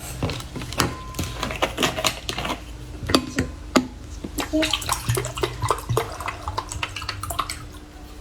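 Orange juice being drunk noisily: a run of loud, wet slurps and gulps mixed with irregular sharp clicks.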